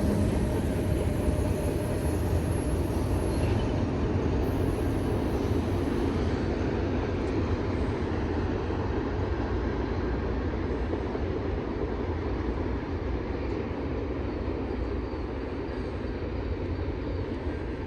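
Freight train's cars rolling past on the rails, a steady rumble of wheels that slowly fades.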